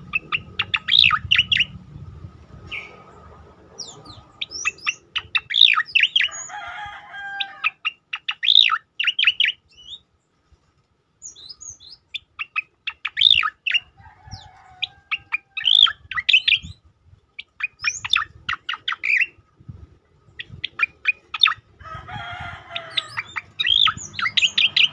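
Striated grassbird (cica-koreng) singing: repeated bursts of rapid, sharp, high chipping notes, each phrase a second or two long with short pauses between. A lower, warbling phrase comes in three times.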